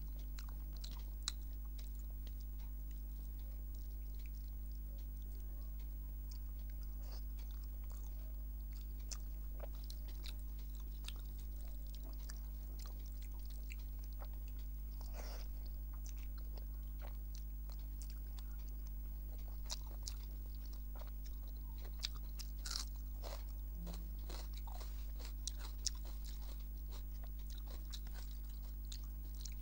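Close-up eating sounds of rice, dal and fried vegetables eaten by hand: soft chewing with scattered wet smacks and clicks as the fingers mix rice on the plate and food goes to the mouth, over a steady low hum.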